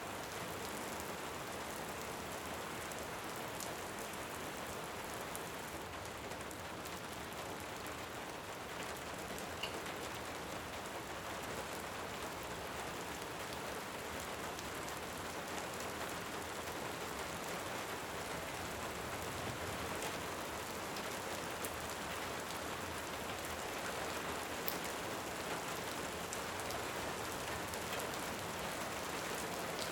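Steady rain falling, an even rushing hiss, with a few brief sharp pops of a crackling wood fire.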